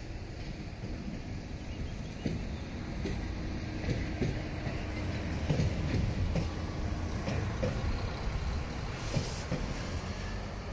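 Works train of a yellow track-maintenance vehicle hauling ballast hopper wagons rolling along the tracks: a low rumble that builds and peaks midway, with wheels knocking over rail joints and a short hiss near the end.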